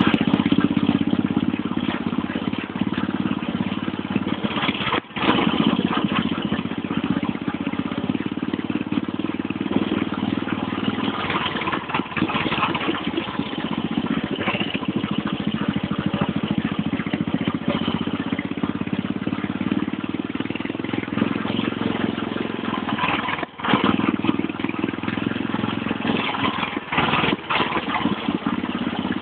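Motorcycle engine running steadily while riding along a dirt trail at about 60 kph, dropping out briefly twice.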